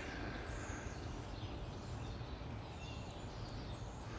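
Faint background birdsong: scattered short, high chirps over a steady low rumble of ambient noise.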